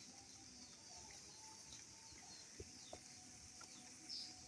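Near silence: faint outdoor background with a few faint, short, high bird chirps, one clearer near the end.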